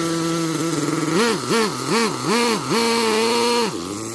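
Nitro RC monster truck's small two-stroke glow engine running steadily. It is then blipped up and down four times in quick succession, held at high revs for about a second, and drops back to a lower speed near the end.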